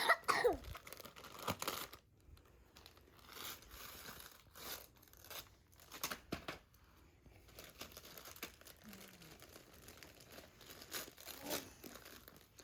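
Gift wrapping paper being torn and crumpled as a present is unwrapped: irregular short rips and crinkles.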